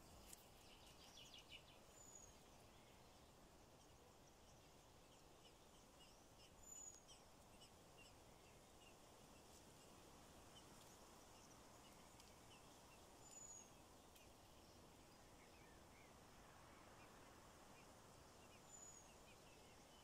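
Near silence: faint outdoor background with a few soft, high bird chirps, four short thin calls spaced several seconds apart.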